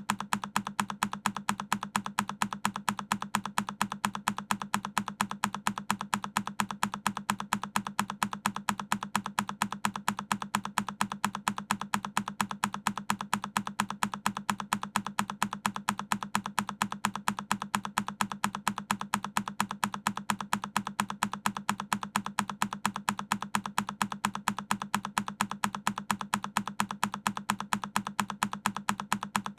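A single key press on a Keychron K10 mechanical keyboard, looped: the same click repeated at an even, steady rhythm of several presses a second.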